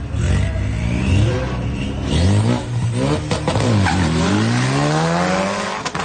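Ford Mustang EcoBoost's turbocharged four-cylinder at full throttle on a drag-strip pass, its note rising in pitch through each gear and dropping back at the upshifts, roughly two and four seconds in.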